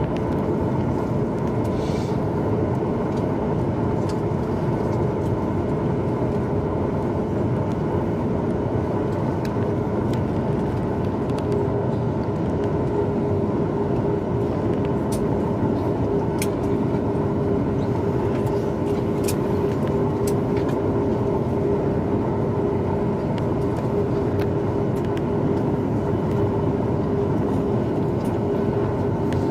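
Steady cabin noise inside a Boeing 737 MAX 8 after landing: a constant rush of engine and air-system noise with a steady hum, and a few faint clicks.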